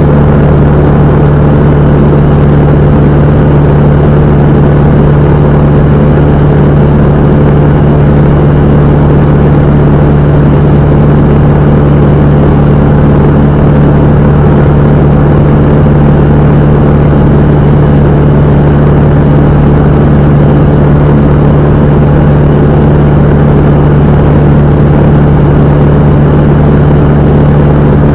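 Cessna 172M's four-cylinder Lycoming O-320 engine and propeller running at a constant, steady power setting: a loud, unchanging drone with a strong low hum.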